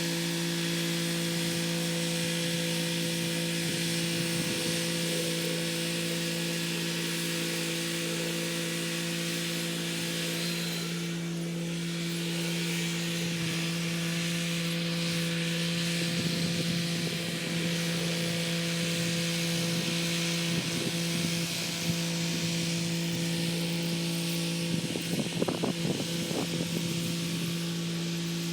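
Kubota SL35 tractor's diesel engine running at a steady speed while its rotary tiller churns the soil, a constant hum with a hiss of working noise over it. Rougher rattling comes in a little past halfway and again near the end.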